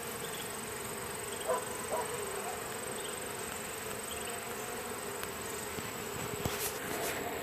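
Honey bees buzzing in a steady hum around an open hive, a colony stirred up by the inspection. A few light knocks sound over it.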